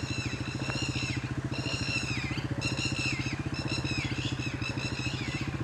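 Quad bike (ATV) engine idling with a steady, fast pulse. A run of high chirps with falling ends repeats over it.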